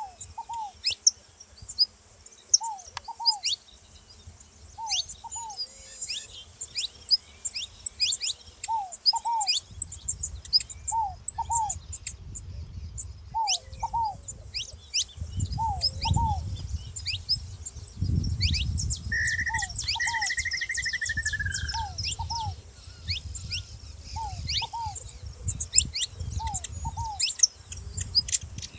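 Saffron finch chirping and singing in rapid high, sharp notes while a ground dove coos in short two-note phrases, repeated about once a second. A low rumble comes in about a third of the way through.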